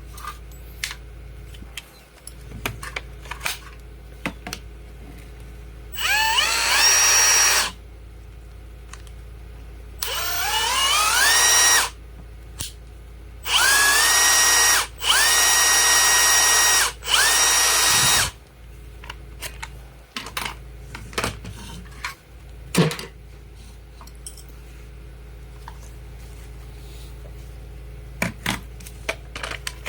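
Makita DHR182 cordless rotary hammer running in five short bursts, each starting with a rising whine as the motor spins up and then holding steady. This is a test run after its broken 625 gearbox bearing was replaced.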